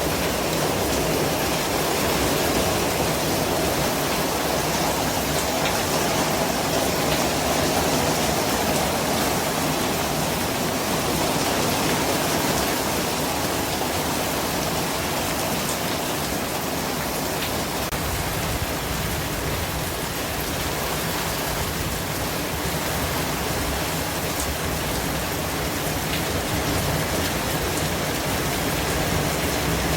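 Continuous white-noise track: a steady, even hiss much like heavy rain, with a few faint ticks here and there.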